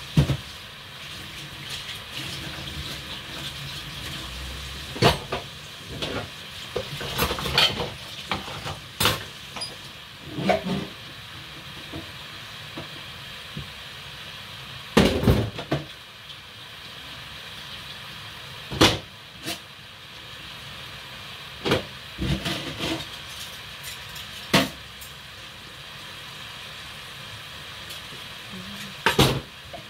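Food frying in a saucepan of hot oil on a gas hob, a steady sizzle, with scattered clicks and knocks of dishes and utensils being handled.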